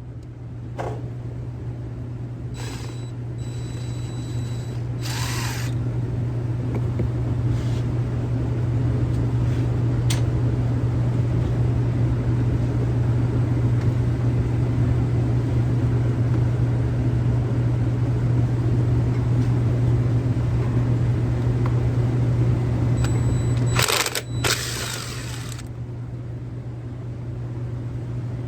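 A steady, low mechanical hum that swells slightly and briefly dips about three quarters of the way through. A few sharp tool clicks and knocks sound over it, with a short noisy burst near the dip.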